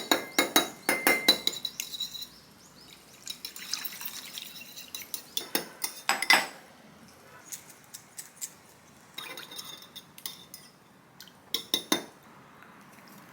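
Dishes and cutlery clinking, in several short bunches of sharp clinks, some ringing briefly, with quieter gaps between.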